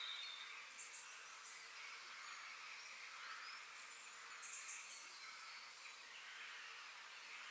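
Faint forest ambience: a steady insect drone with a few short, high bird chirps about a second in and again around the middle.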